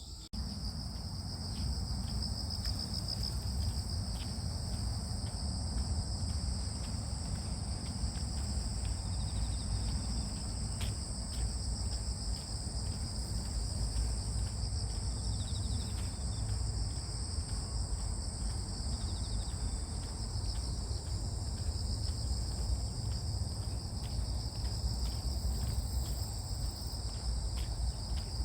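A steady chorus of crickets and other grass insects trilling, in two high-pitched bands that pulse without pause. A steady low rumble runs beneath them.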